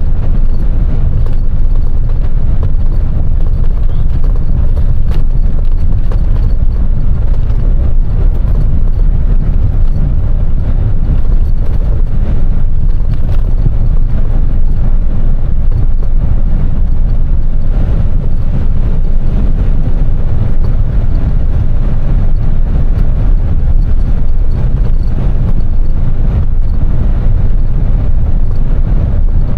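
Semi truck on the move, heard from inside the cab: a loud, steady low rumble of engine and road noise.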